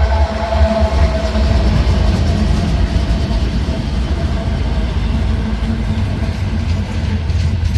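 Norfolk Southern freight train passing with a steady, loud low rumble of its cars on the rails. A tone dies away in the first second or two.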